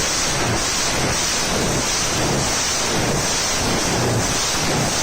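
A large 14-cylinder, two-row radial aircraft engine running hard: a loud, dense, rough noise with a low throb pulsing underneath.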